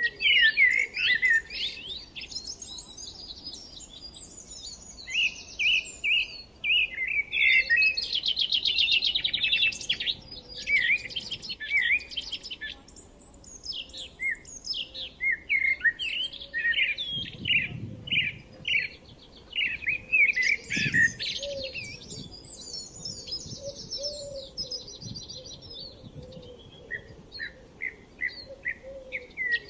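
Forest birdsong: several small birds chirping and calling over one another, with quick sweeping notes. Rapid trills stand out about a quarter of the way in and again past the middle.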